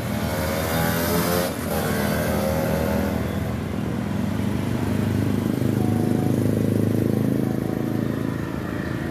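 Motor vehicle engine accelerating with a rising note for the first second and a half, then a steady engine hum.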